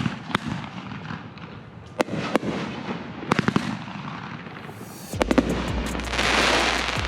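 Consumer fireworks going off: scattered single bangs, then quick clusters of reports about three and a half and five seconds in. Near the end comes a swelling hissing crackle.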